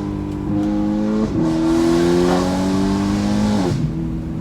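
2013 BMW M3's V8, with a catless exhaust and an Akrapovič rear muffler, accelerating hard and rising in pitch, with an upshift about a second in and another near the end.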